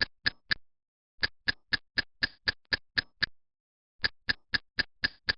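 Sharp, evenly spaced ticks, about four a second, in three runs broken by two pauses of under a second each.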